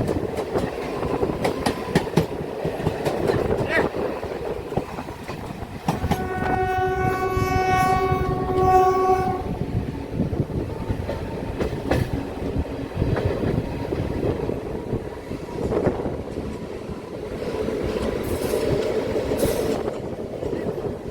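Passenger train running at speed, its coaches rattling with the clickety-clack of wheels over rail joints. About six seconds in, the WAP7 electric locomotive's air horn sounds one long blast of about three seconds.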